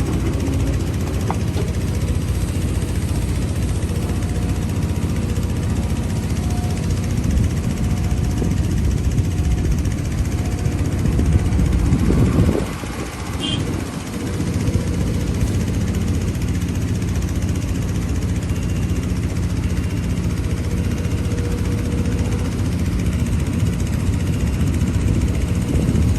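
Heavy diesel engine of earthmoving machinery running steadily, with a brief surge and then a short drop in level about halfway through.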